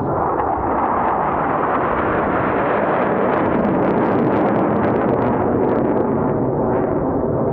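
Loud jet noise from a formation of F/A-18 Super Hornets climbing past. The rushing noise jumps up at the start and stays loud, with a crackling edge through the middle.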